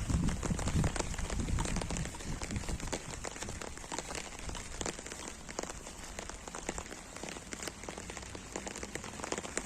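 Steady rain falling, a dense hiss of many small drop ticks, with a low rumble during the first two seconds.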